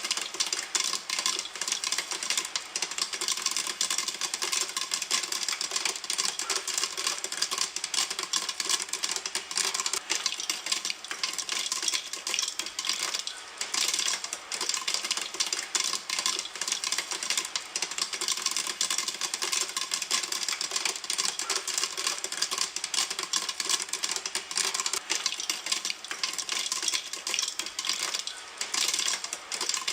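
Popcorn kernels popping in a pan: rapid, overlapping pops, many a second, with no let-up.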